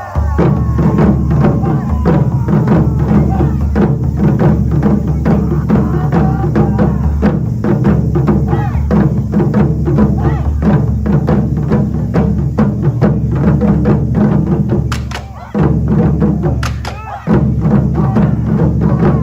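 Japanese taiko drums played by an ensemble in a fast, dense rhythm of heavy strokes, broken by two short pauses, about fifteen and seventeen seconds in.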